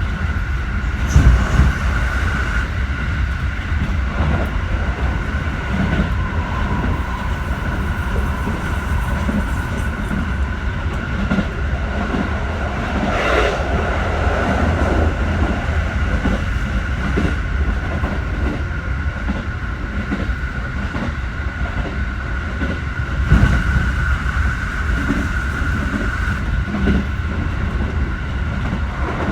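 Keikyu 1000 series electric train running: a steady high whine over a constant low rumble, with wheels clacking over rail joints. The clacks are loudest about a second in and again about three quarters of the way through.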